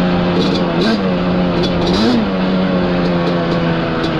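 Yamaha Banshee's twin-cylinder two-stroke engine running at a steady throttle, with two brief blips in revs about one and two seconds in.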